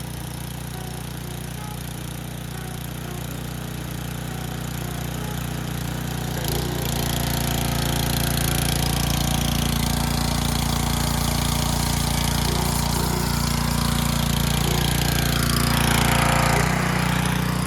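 Pressure washer running steadily, its motor humming, while water is forced through the cooling passages of a 1973 Triumph TR6 engine block to flush out sludge. It gets louder and fuller about six and a half seconds in.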